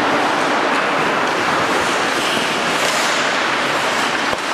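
Steady scraping hiss of skates on the ice during an ice hockey game, with a sharp knock of stick or puck near the end.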